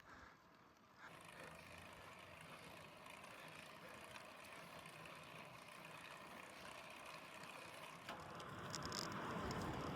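Wind and tyre noise of a moving bicycle picked up by a phone mounted on the bike, setting in about a second in and growing louder near the end.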